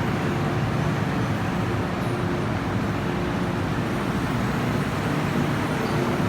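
Steady noise inside an MTR Tseung Kwan O line M-Train car: a continuous low rumble with a faint steady hum, unchanging throughout.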